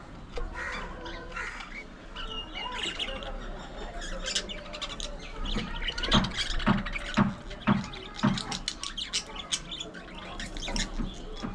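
A colony of budgerigars chattering, with many overlapping short chirps and squawks that grow busier about halfway through.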